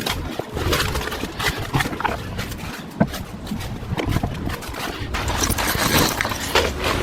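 Irregular footsteps and rustling of someone walking along a path through brush, over a steady low rumble of wind on the microphone.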